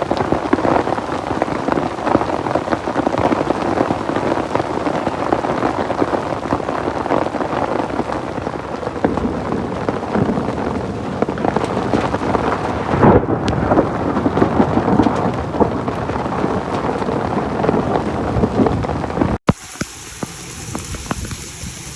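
Heavy rain and dense hail pelting down: a loud, steady roar thick with sharp ticks of impacts. It cuts off abruptly about 19 seconds in, leaving a quieter hiss.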